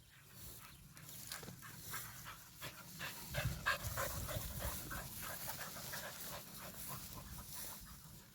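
A dog panting quickly in short, even breaths, louder from about three seconds in.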